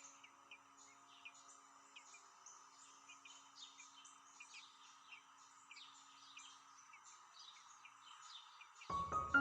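Small birds chirping faintly in many short, high calls over a steady hiss. Faint held musical tones fade out, and music comes in near the end.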